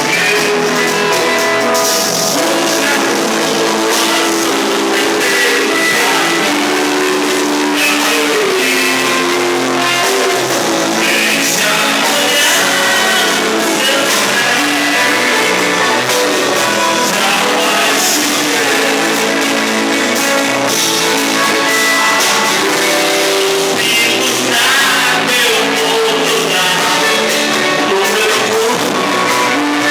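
Rock band playing live, with a sung vocal over electric guitar and a steady beat.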